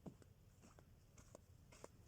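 Near silence with faint scattered clicks and ticks, about half a dozen in two seconds, over a low, steady background hum.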